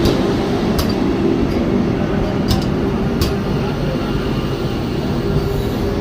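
Passenger train running on the rails: a steady rumble and hum, with three sharp clicks in the first half.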